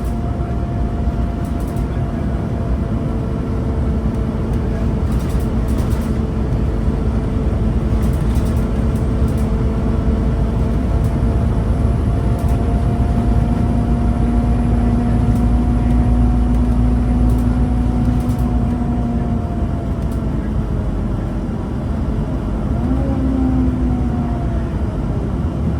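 Scania N230UB Omnicity single-decker bus on the move: its five-cylinder diesel and drivetrain running with a steady low rumble and a whine that drifts slowly in pitch, shifting briefly near the end.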